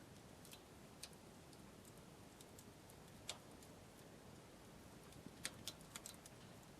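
Wood campfire crackling faintly: scattered, irregular sharp pops and snaps over a quiet background hiss, with a quick cluster of pops near the end.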